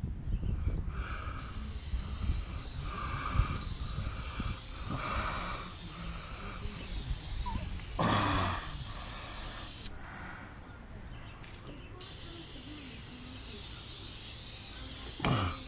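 Aerosol spray paint can hissing in long sprays: it starts about a second in, stops for about two seconds near the ten-second mark, then resumes, over a low rumble of wind on the microphone.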